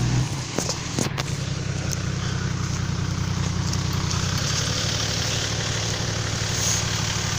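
Car engine idling steadily, with a couple of short knocks about a second in.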